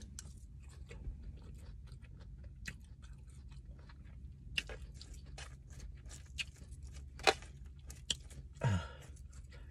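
Close-up mouth sounds of someone chewing a forkful of food, with scattered small crunches and clicks over a low steady hum. A short hummed "mm" comes near the end.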